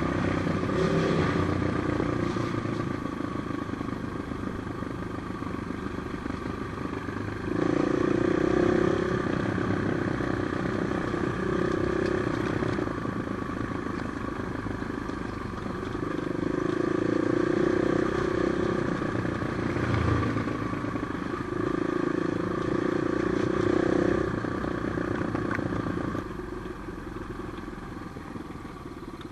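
Trail motorcycle engine running steadily under changing throttle, with several surges of higher revs, and easing off to a lower level near the end.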